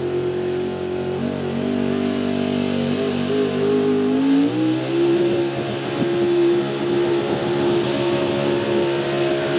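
Outlaw 4x4 pulling truck's Ford engine running hard at high revs. The pitch sags slightly, then climbs about four and a half seconds in and holds steady.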